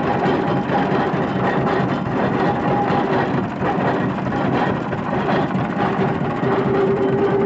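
Antique engine running steadily, with a fast even beat of firing strokes.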